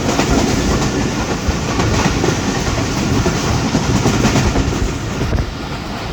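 Passenger train running at speed, a steady loud rumble of wheels on the track with scattered clacks over rail joints.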